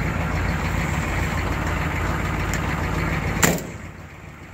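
1982 Chevrolet C10's 6.2-litre V8 diesel idling just after a cold start at 16 °F, running a little rough while still cold. A single sharp click comes about three and a half seconds in, and the engine sounds quieter after it.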